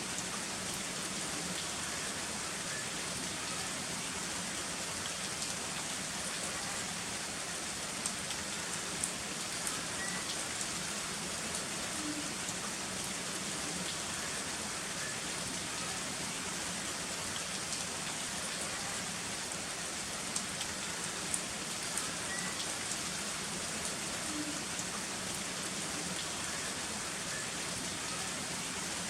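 Heavy rain falling steadily as an even hiss, with a few sharper drop ticks here and there.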